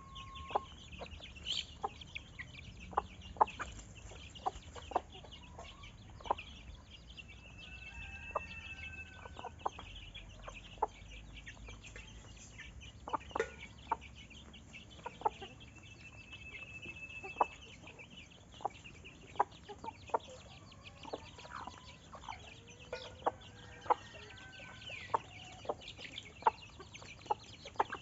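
Chickens clucking: many short, sharp clucks scattered irregularly, with a thin high whistled note held for about a second, twice.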